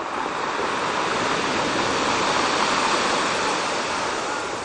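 Ocean wave breaking and washing up the beach, a rushing noise that swells, holds, and fades away near the end.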